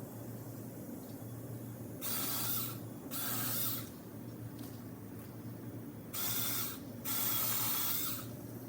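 Mini cordless electric chainsaw cutting into branches in four short bursts, in two pairs, each under about a second, over a steady low hum.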